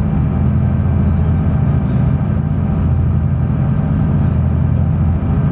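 A sightseeing cruise boat's engine running steadily underway, a constant low drone heard on board.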